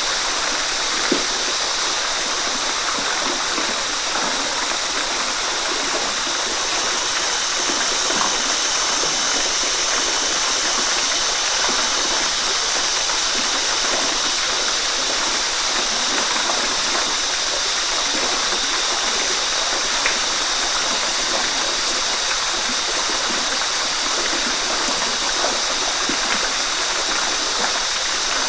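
Waterfall: falling water rushing and splashing steadily in an even hiss, with small splashes scattered through it.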